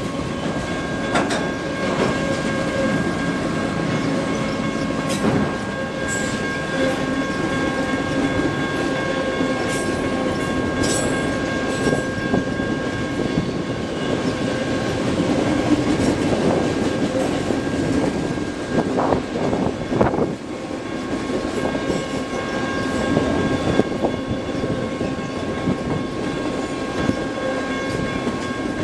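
Norfolk Southern freight train of autorack cars rolling steadily past close by: a continuous rumble of wheels on rail, with scattered sharp clacks as the wheels cross rail joints and a few thin steady tones above the rumble.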